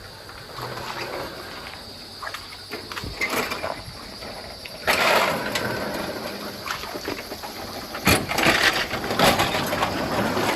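Marbles rolling and clattering along a marble-run track, a continuous rolling noise with scattered clicks. It grows louder about halfway through, with sharp clacks near the end.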